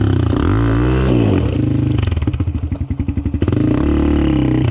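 Off-road dirt bike engine revving up and down, dropping to a slow, even putter for about a second and a half in the middle, then picking up again.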